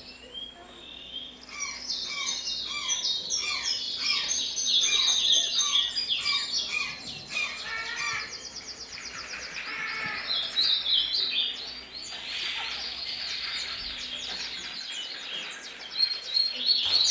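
Birdsong: many birds chirping and calling at once, in quick, overlapping rising and falling notes.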